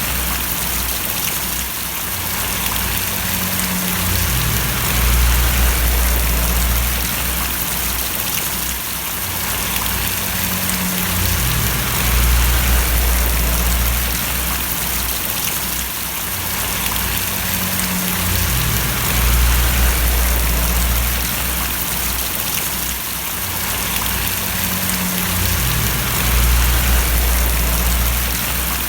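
Steady rain falling and splashing, an even hiss. Underneath it a low rumble swells and fades about every seven seconds.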